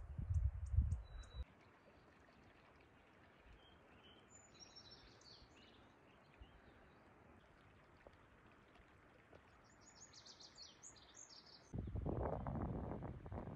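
Small birds giving short high chirps, once about four seconds in and again in a quick series near ten seconds, over faint open-air hiss. Wind rumbles on the microphone during the first second or so and again near the end.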